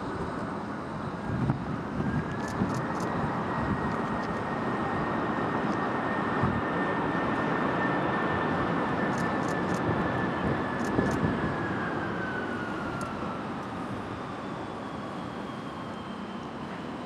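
Airbus A330-303's General Electric CF6-80E1A3 turbofan engines running with a rushing noise and a whine that rises about two seconds in, holds for some ten seconds, then falls away in pitch.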